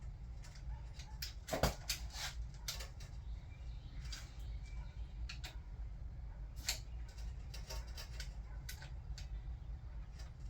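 Scattered sharp metallic clicks of a click-type torque wrench reaching its setting on the camshaft cap bolts of a Toyota 2JZ cylinder head, the loudest about one and a half seconds in, over a steady low hum.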